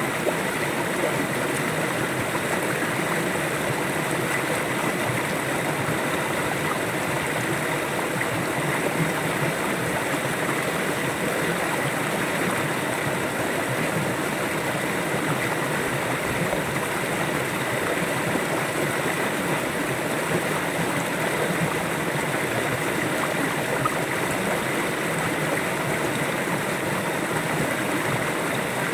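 River water flowing steadily, a continuous even rush and gurgle with no breaks.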